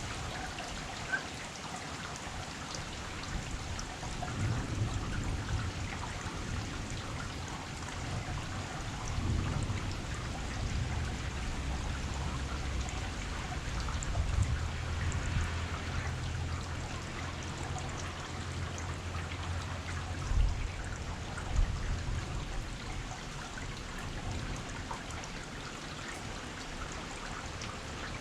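Rain falling steadily, with a low rumble underneath through the middle stretch and two short knocks about twenty seconds in.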